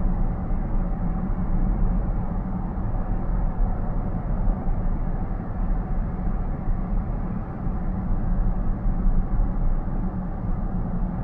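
Steady road and tyre noise of a car cruising at highway speed, heard from inside the cabin as an even low rumble with little high-pitched sound.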